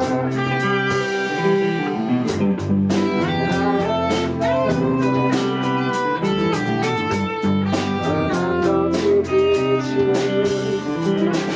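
A live band playing an instrumental passage: guitar to the fore over bass, with a steady beat.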